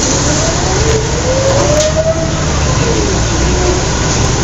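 Scania L113CRL bus's 11-litre straight-six diesel running under way with a steady low rumble. A whine over the rumble rises in pitch in the first half and falls again after about two seconds, as the bus accelerates and then changes gear.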